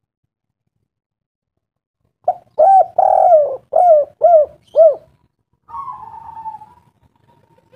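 A bird cooing: a quick run of about six short, arching notes, followed by a fainter, drawn-out falling note.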